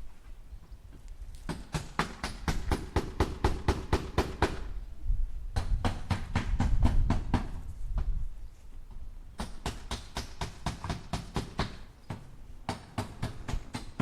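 Hammer striking nails into wood in four runs of quick, even blows, about four or five a second, with short pauses between runs.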